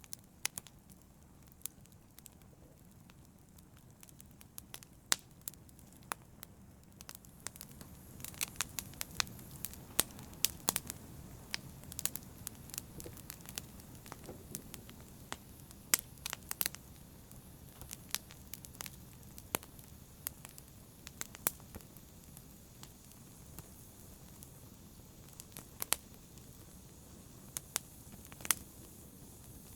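Wood fire burning in a fireplace, crackling: irregular sharp pops and snaps over a soft, steady low rush of flame, coming thickest about a third of the way in.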